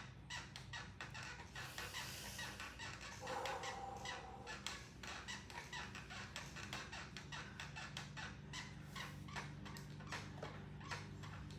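Stationary exercise bike being pedalled: a steady, rhythmic clicking or squeaking, about three to four strokes a second, over a low hum from the flywheel, with a brief higher squeal a few seconds in.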